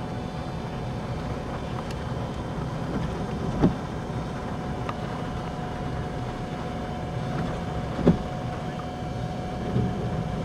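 Steady rumble of a car's engine and road noise heard inside the cabin, with a faint steady whine and two brief thumps, about a third of the way in and again near three-quarters.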